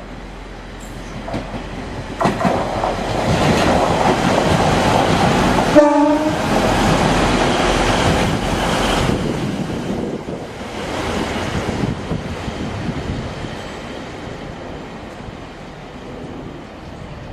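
A train running past on the platform line, its rumble and wheel noise building, with a short horn blast about six seconds in, then fading after about twelve seconds.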